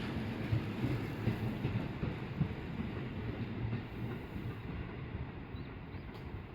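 Out-of-service electric train pulling out of the platform, its low rumble from wheels and motors slowly fading as it moves away.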